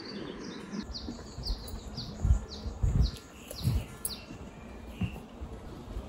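A forest bird singing a run of short, falling whistled notes, about two a second, that stops about two-thirds of the way through. A few low thumps sound in the middle and are the loudest moments.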